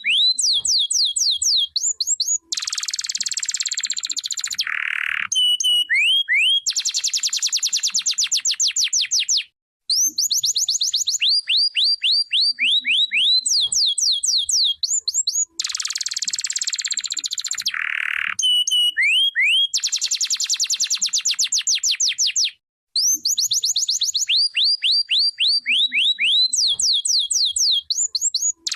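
Domestic canary singing a long, loud song: runs of quick rising whistled notes, buzzy rolls and rapid trills. The same sequence of phrases comes round again about every thirteen seconds, with two brief pauses.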